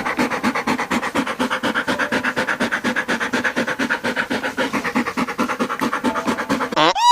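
An animal's rapid, steady pulsed call or rattle, about eight pulses a second, held for nearly seven seconds. Just before the end it gives way to a short rising-and-falling cry.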